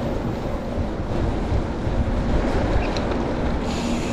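Strong gusting wind buffeting the bike-mounted camera microphone while riding, a steady low rumble, with a brighter hiss coming in near the end.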